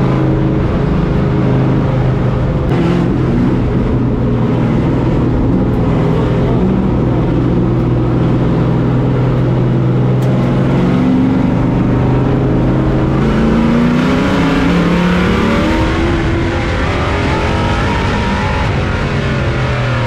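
On-board sound of a pro race truck's engine running hard at a steady pitch. About two-thirds of the way through it revs up, its pitch climbing for a few seconds as the truck accelerates.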